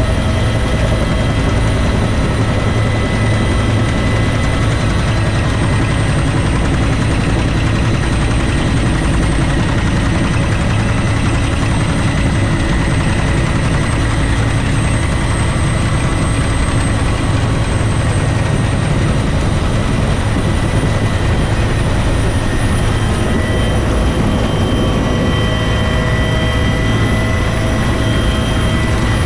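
Bell UH-1 Huey helicopter in flight: a loud, steady mix of rotor noise and turbine engine whine, with a strong low drone and thin high whining tones that hold steady throughout.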